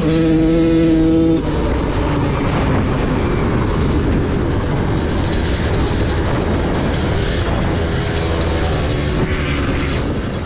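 Dirt bike engine held at high revs with a steady, clear note. About a second and a half in, the note drops away into a rough, noisy running sound, and a faint engine note comes back near the end.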